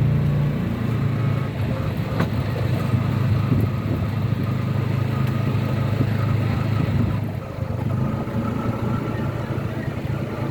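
A motor-vehicle engine running steadily with a low, even hum.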